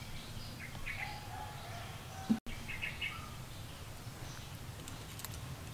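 Small birds chirping a few short times over steady low outdoor background noise. A little past two seconds in there is a brief thump, then the sound drops out for a moment.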